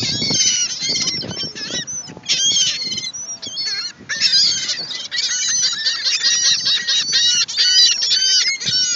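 A flock of seagulls calling loudly, many squawks overlapping, as they crowd in for thrown chips.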